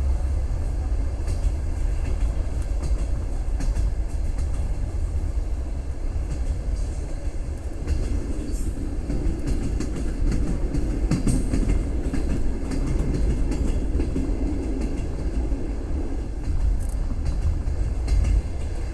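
Moving train heard from inside the carriage: the wheels rumble steadily on the track, with irregular clicks and clacks over the rails and a fuller rumble for several seconds midway.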